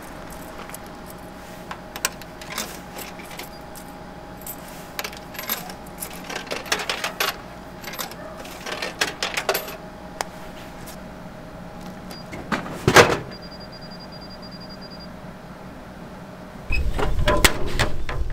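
A series of light metallic clinks and knocks, as of small metal gear being handled, with one sharper knock about two-thirds of the way through. Near the end a louder steady low rushing noise cuts in abruptly.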